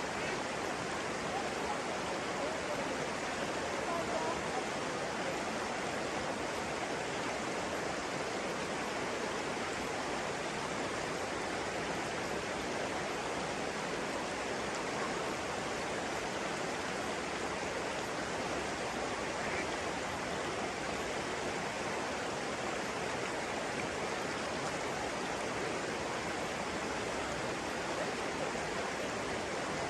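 Flowing water of a stream, a steady, even rush with no pauses.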